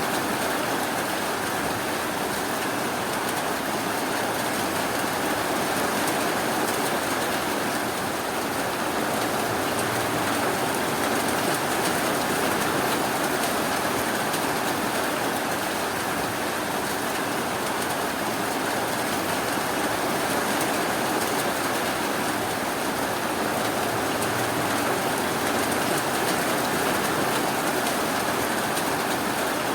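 Steady rainfall, a continuous even hiss with no thunder or other sudden sounds.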